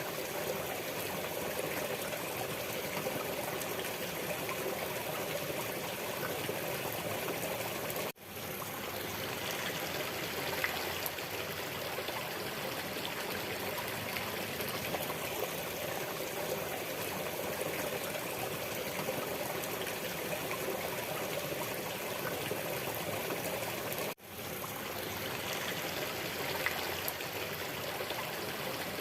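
Waterfall's water flowing and splashing in a steady rush. It cuts out for an instant twice, about eight seconds in and again about twenty-four seconds in, fading back up each time, as at the joins of a looped recording.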